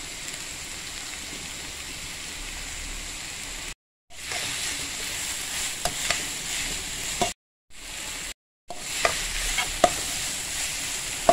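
Red amaranth leaves and onion frying in oil in a non-stick wok, a steady sizzle. From about four seconds in a metal spoon stirs them, scraping with a few sharp clicks against the pan, and the sound cuts out briefly a few times.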